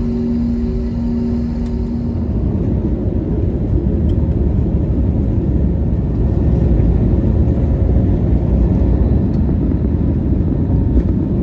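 Jet airliner on its takeoff roll, heard inside the cabin: engines at takeoff power over a heavy low rumble, growing louder from about four seconds in. A steady hum with a second, pulsing tone stops about two seconds in.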